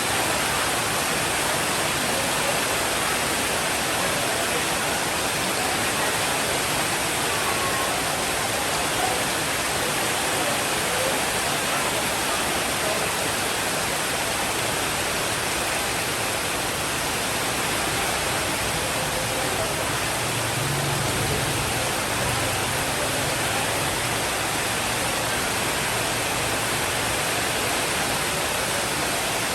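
Steady rain, a dense even hiss without let-up, with a faint low rumble for several seconds about two-thirds of the way through.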